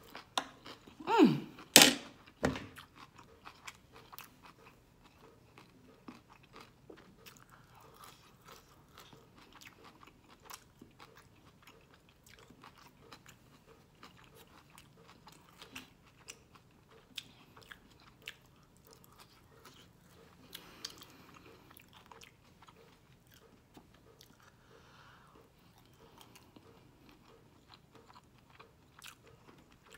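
Close-miked chewing and crunching of stir-fried vegetables and shrimp, with frequent small mouth clicks. About a second in there is a louder, brief mouth noise with a sliding pitch, followed by a sharp click.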